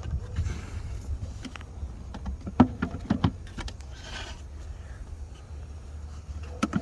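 Hard plastic clicks and knocks from the engine air-filter housing being handled while the filter is swapped: a cluster of sharp clicks about two and a half to three seconds in, a brief rustle, and another click near the end, over a low steady rumble.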